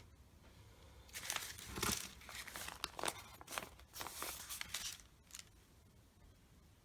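Paper scraps rustling and crinkling as they are handled, in irregular short bursts over a few seconds.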